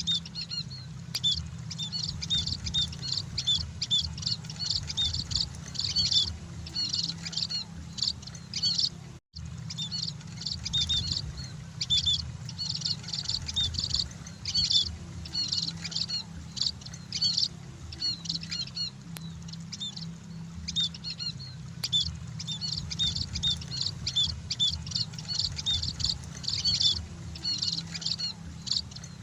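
Munias (emprit) chirping continuously in a busy chorus of short, high chirps, over a steady low hum. The sound drops out for a split second about nine seconds in.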